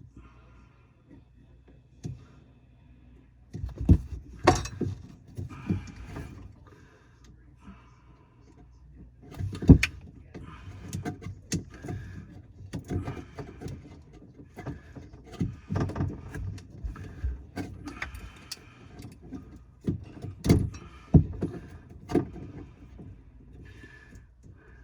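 Irregular knocks, clunks and scrapes of hands-on plumbing work under a kitchen sink, with tools and drain or disposal parts being handled. There are heavier single knocks about four seconds in, near ten seconds and around twenty seconds.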